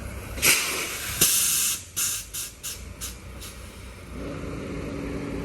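Semi truck's compressed-air system hissing: a short burst, then a longer one, then several quick puffs of escaping air, which is taken for a truck losing air. A steady low hum starts near the end.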